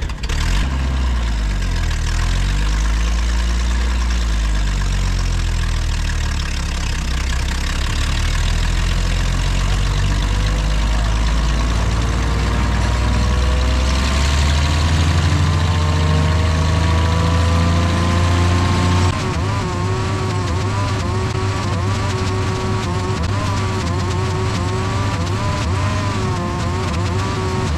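Diesel engine of an ASV RC85 compact track loader running hard with a deep rumble, its pitch rising slowly, then changing suddenly about two-thirds of the way in to a steadier, wavering drone.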